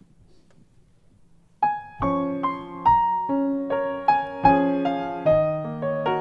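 A short hush, then about a second and a half in a piano starts playing the introduction to a hymn: struck chords and a slow melody, each note fading after it is struck.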